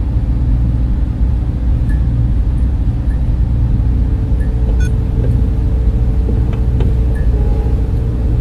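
Server room cooling fans running: a steady, loud low rumble with a faint constant hum above it and a few faint ticks.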